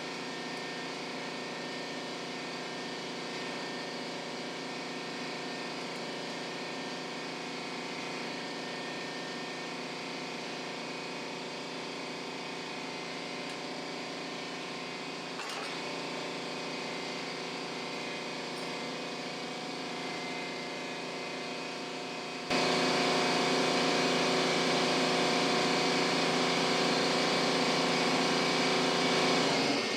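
A machine running steadily with a constant hum and whine, jumping noticeably louder about three-quarters of the way through and cutting off abruptly at the end.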